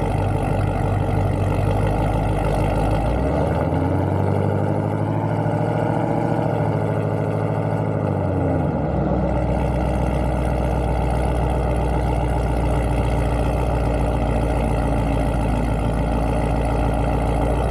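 A car engine idling steadily; about four seconds in it rises slowly in pitch and settles back down by about eight seconds in.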